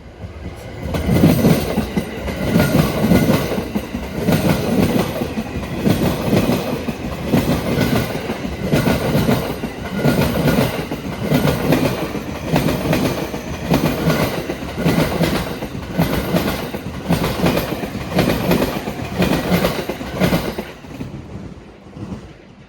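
JR East E231 series 1000 commuter train's wheels clacking over rail joints as it rolls in slowly, a steady repeating clatter as bogie after bogie crosses the joints, dying away near the end.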